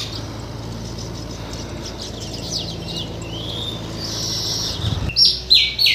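Birds calling: scattered high chirps, then a run of loud, sharp calls that fall in pitch near the end.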